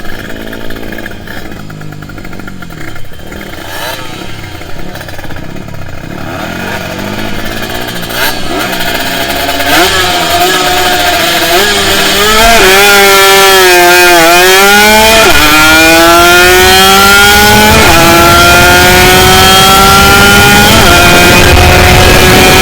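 Kawasaki Ninja 150RR two-stroke engine accelerating hard on a drag run. It grows from faint at first to very loud about halfway through, its pitch climbing through each gear and dropping sharply at two upshifts near the end.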